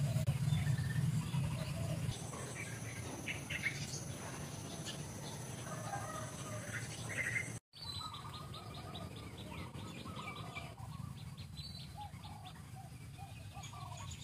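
Birds chirping in short, scattered calls, with a steady high-pitched hum running for a few seconds. The sound cuts out for a moment about halfway through, then the chirping carries on.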